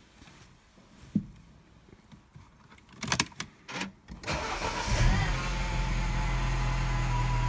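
A single thump about a second in, then a car engine is cranked about three seconds in, catches and settles into a steady idle.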